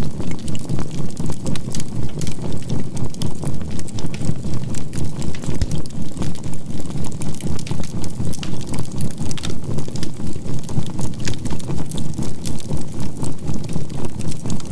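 A low, steady electronic drone of healing-frequency tones that pulses about four times a second as a binaural beat, layered over the crackle and snap of a burning charcoal campfire.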